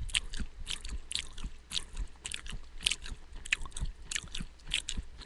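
A person chewing a mouthful of soaked, uncooked beans, peas, corn and rice, picked close up by a headset microphone: a steady run of irregular crisp crunches and mouth clicks.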